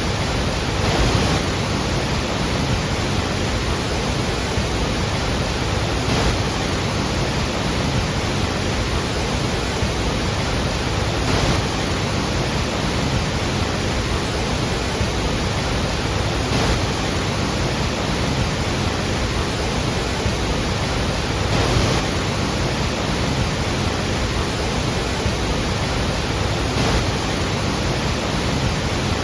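The Iguazu waterfalls: a heavy, steady roar of falling water, with slight swells about every five seconds.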